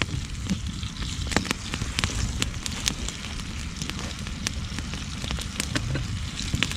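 Campfire burning, crackling with frequent irregular sharp pops over a steady low rumble.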